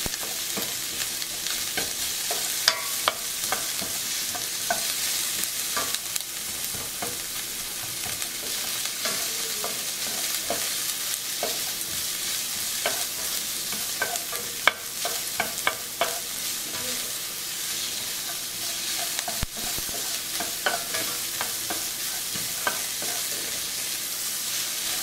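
Chopped onions, garlic and ginger sizzling in hot oil in a stainless steel frying pan, with a steady hiss, while a spatula stirs them and scrapes and taps against the pan many times.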